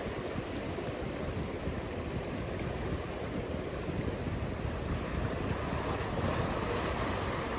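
Ocean surf: a steady rush of breaking and washing waves, swelling slightly near the end.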